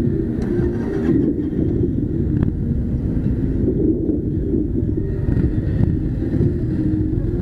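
Harley-Davidson Softail Slim's V-twin engine running steadily, its sound sitting low in pitch.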